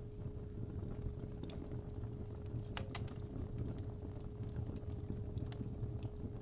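Fireplace fire crackling with irregular small pops over a low rumble, under a steady 417 Hz sine tone.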